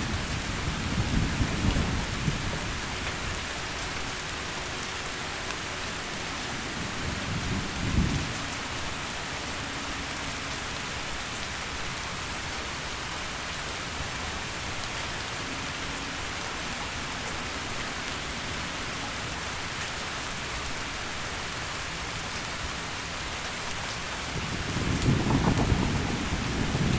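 Heavy rain falling steadily, with thunder rumbling low in the first couple of seconds, a short low clap about eight seconds in, and a louder rumble building near the end.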